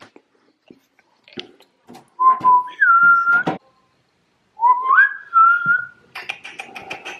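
A person whistling twice to call a pet hamster out, each whistle stepping up from a lower note to a higher held note. A quick run of clicks follows near the end.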